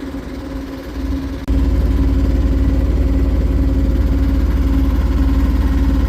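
Catamaran's engine running steadily under way, a low pulsing rumble with a steady hum over it that gets louder about a second and a half in.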